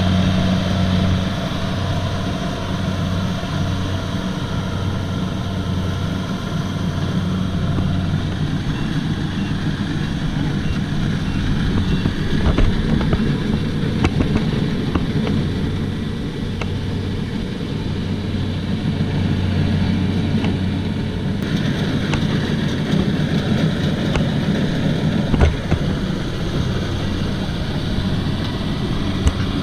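Kubota DC-70 combine harvester's diesel engine running steadily, a constant drone with scattered clicks and rattles from the machine.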